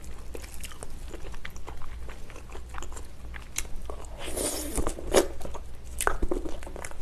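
Close-miked biting and chewing of gelatinous braised ox foot, sticky collagen giving many small wet smacks and clicks, with a louder wet patch about four and a half seconds in.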